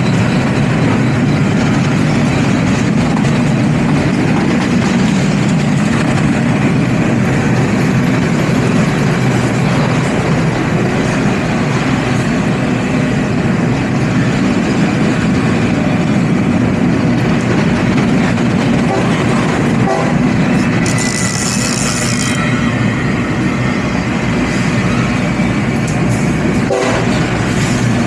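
Freight train passing close by: a loud, steady rumble and clatter of steel wheels on the rails. A brief high hiss comes about two-thirds of the way through.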